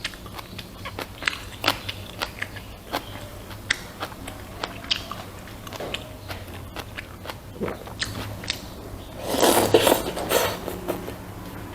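Close-miked chewing of a mouthful of food, with many short wet mouth clicks and smacks, over a steady low hum. About nine seconds in comes a louder, noisier stretch of about a second and a half.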